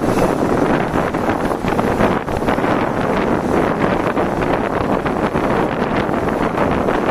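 Wind buffeting the microphone: a loud, steady, ragged rush of noise.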